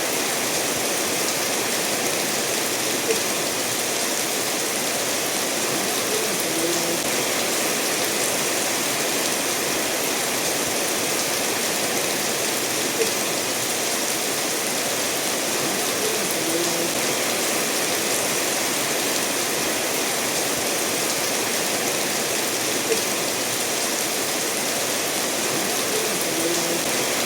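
Steady rain falling together with a stream flowing between stones, an even rushing hiss, with a single louder drop standing out about every ten seconds.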